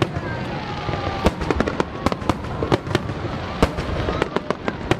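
Aerial fireworks display with rapid, irregular bangs and crackles of shells bursting, several a second. Thin whistling tones glide downward beneath them.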